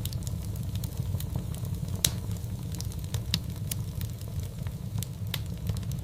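Fireplace fire crackling: irregular sharp pops and snaps over a steady low rumble, the loudest pop about two seconds in.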